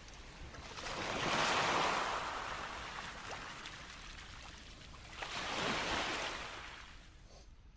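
Sea waves breaking and washing up the shore: two surges, each swelling and fading over a few seconds. The surf sound drops away abruptly near the end.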